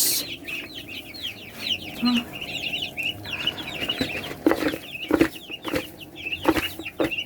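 A flock of young chickens cheeping steadily with rapid, high, falling peeps. From about four seconds in there are several sharp knocks and clatters.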